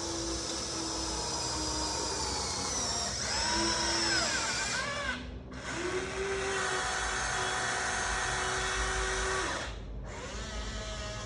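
Electric geared motors of a Huina 1593 RC excavator whining as it is worked, the pitch bending as the functions change. The whine stops briefly about five seconds in, starts again, and drops to a lower hum near the end.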